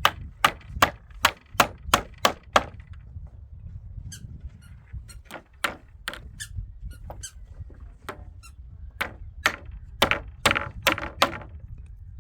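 Hammer blows: a quick run of sharp knocks, about three a second, then a few scattered strikes and a second run near the end, over a steady low rumble.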